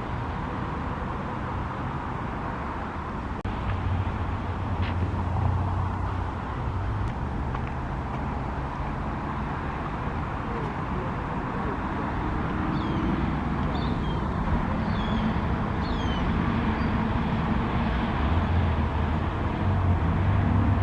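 Steady low rumble of road traffic, swelling slightly near the end, with a few short, high bird chirps about two-thirds of the way through.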